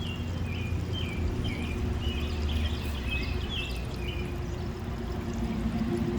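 Water trickling and pouring down a rocky channel, a steady rushing. A bird calls a quick run of short chirps over it for about the first four seconds.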